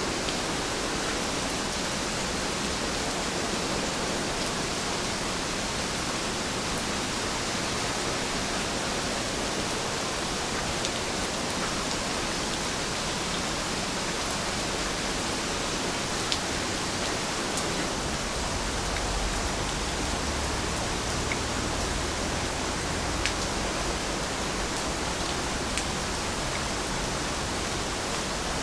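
Heavy rain falling steadily, with a few sharper drops hitting something close by. A low rumble comes in for a few seconds past the middle.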